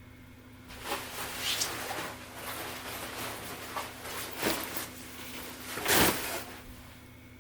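Fabric of riding clothing rustling and being handled in irregular bursts, with a louder knock about six seconds in.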